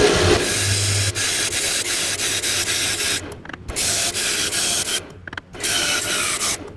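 Wood being worked on a spinning lathe: a steady rasping hiss of tool or abrasive against the turning piece, broken off sharply twice as the work jumps between short stretches.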